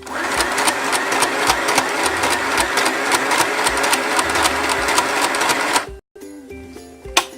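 Sew Simple portable sewing machine stitching under the foot pedal, running steadily for about six seconds, then stopping abruptly. A single sharp click follows near the end.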